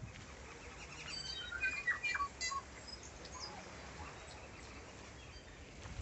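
Tui singing: a quick jumble of varied notes, clicks and ringing tones about a second in, then a few scattered notes, including a short falling one.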